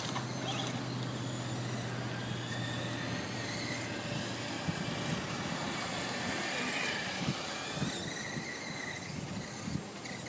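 Electric radio-controlled cars running on a dirt track, their motors whining and rising and falling in pitch, over a low steady hum that stops after about three seconds, with a few sharp clicks later on.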